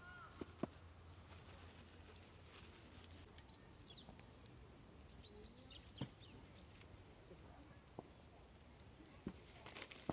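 Quiet outdoor ambience with a few short bird chirps, one group about three and a half seconds in and another a little after five seconds, and a few faint scattered knocks.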